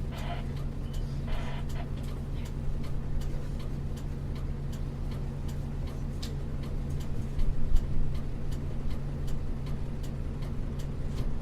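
Isuzu U-LV224N bus's 6QB2 diesel engine idling steadily, with an even clicking about three times a second like the turn-signal relay. A brief louder bump comes about seven and a half seconds in.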